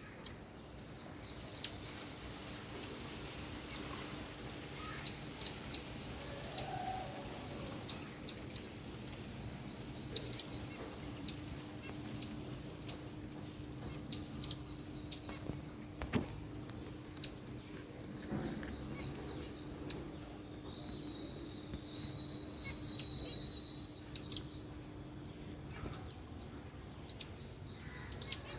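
Small birds chirping in short, quick high-pitched series and trills, over a steady low hum that stops near the end.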